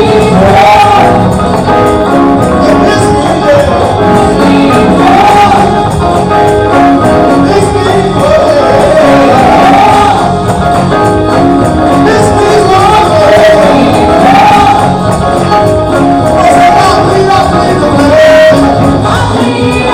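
Church gospel music performed live: voices singing a wavering melody over loud, continuous band accompaniment.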